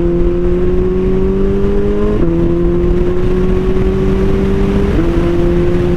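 Suzuki Hayabusa inline-four engine through an Akrapovic 4-into-1 full exhaust system, pulling under steady acceleration: its note climbs slowly and drops sharply twice, about two seconds in and near the end, as the rider shifts up a gear.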